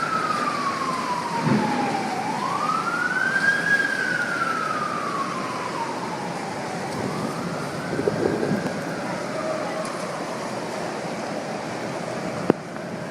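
Emergency vehicle siren on a slow wail, its pitch falling and rising twice and fading away, over a steady rushing noise. A sharp click near the end.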